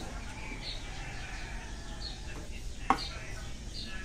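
A small bird chirping, short high chirps repeated about once a second, over a steady low rumble. One sharp knock about three seconds in.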